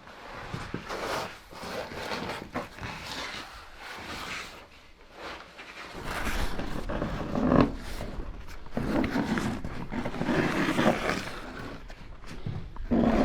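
A person grunting and breathing hard with effort while climbing down through a tight gap, with rough rustling and scraping noises that get louder about halfway through.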